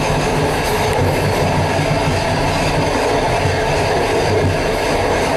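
Suburban passenger train running along the line, heard from inside the rear vestibule of a carriage: a steady rumble and rattle of wheels on rail and the carriage body.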